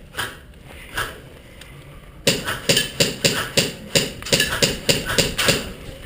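Running footsteps, a quick even run of thuds about four or five a second, starting suddenly about two seconds in after a couple of faint knocks.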